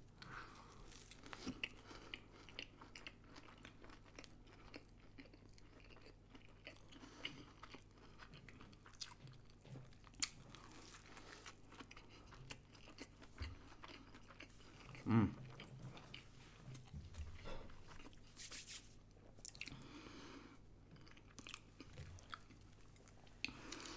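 A person chewing and biting into a burger close to the microphone: faint, with many small crunches and mouth clicks, and one louder click about fifteen seconds in.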